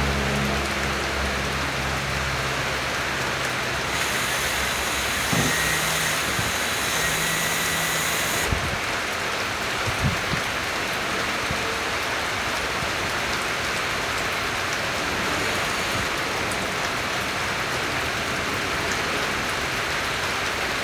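Steady rain falling on a surface, an even hiss with a low hum under it for the first few seconds.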